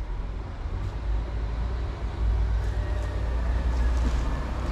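Low rumble of road traffic, growing louder about two seconds in.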